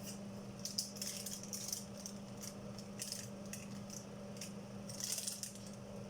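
Irregular short clicks, scrapes and light rattles from handling things in a kitchen, over a steady low hum. The handling is busiest about a second in and again about five seconds in.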